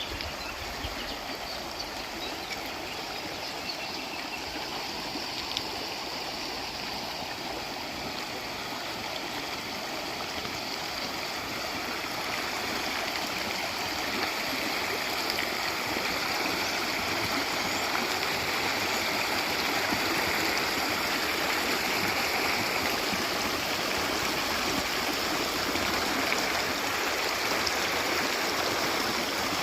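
Running water of a stream, a steady rushing and babbling that grows gradually louder through the middle and then holds.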